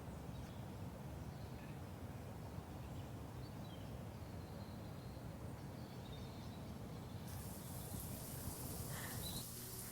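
Faint outdoor background ambience with a few faint, brief bird chirps; the hiss gets a little brighter about seven seconds in.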